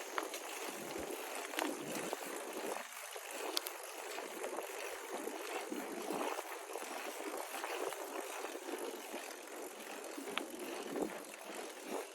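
Bicycle riding along a road: steady tyre and rolling noise with occasional small clicks and rattles.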